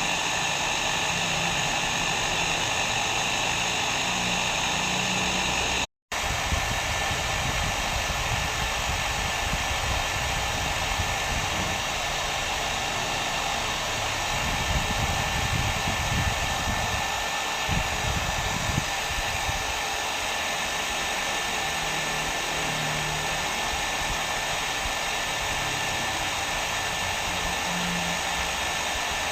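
Hair dryer running steadily, a constant whooshing blow with a faint thin whine. It cuts out for a split second about six seconds in, then carries on.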